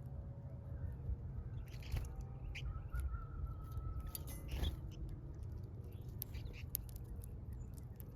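Small birds chirping in short, scattered calls over a low, steady rumble.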